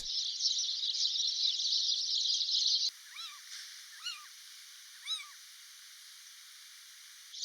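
A dense, steady chorus of insects, then a sudden cut about three seconds in to quieter ambience with three short, arched bird calls about a second apart.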